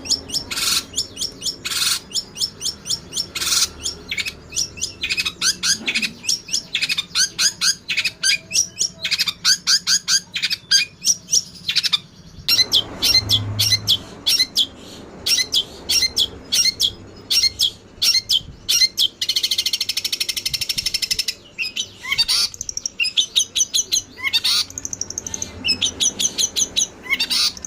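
Songbird training recording of long-tailed shrike (cendet) song mixed with Eurasian tree sparrows squabbling: fast runs of sharp, high chirps and twitters, several a second. A harsh, scratchy chatter comes about twenty seconds in.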